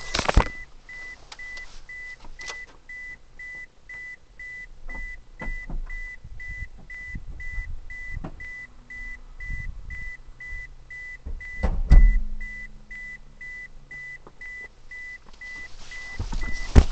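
2008 Toyota Prius cabin warning beeper sounding a steady run of short high beeps, about two a second, as it does with the car in reverse. About twelve seconds in there is a single loud knock, followed by a brief low hum.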